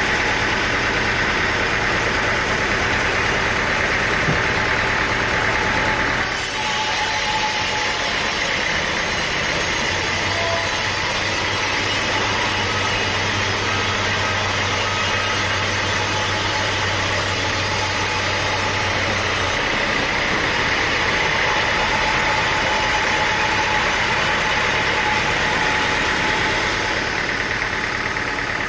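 Sawmill engine running steadily. The sound changes abruptly about six seconds in and changes back near twenty seconds.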